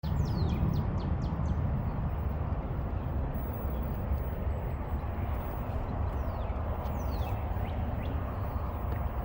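Outdoor ambience: a steady low rumble, like wind buffeting the microphone, with bird chirps (short high notes sliding downward), several in the first second and a half and a few more later.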